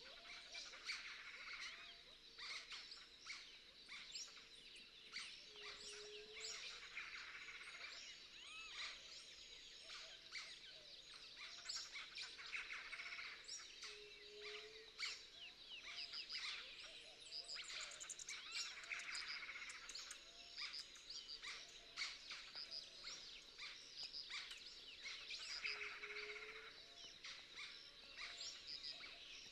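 Birds chirping and calling in a busy chorus of many short, quick calls. A thin, steady high tone runs underneath.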